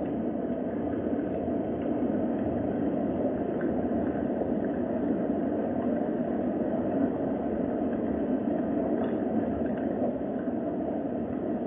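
Steady rain falling, an even wash of sound with a few faint ticks from individual drops.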